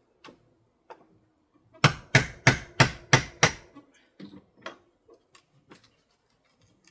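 Hammer blows on an old window frame and pane being knocked out: six sharp strikes in quick succession, about three a second, with a few lighter knocks and taps before and after.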